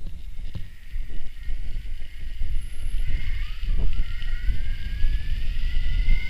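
Wind buffeting the microphone on a moving electric mountain bike, with the bike's electric motor whining. The whine rises slowly in pitch from about halfway through as the bike speeds up.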